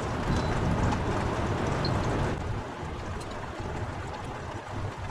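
Heavy rain falling, a steady hiss, with a low rumble under it that eases off about two seconds in.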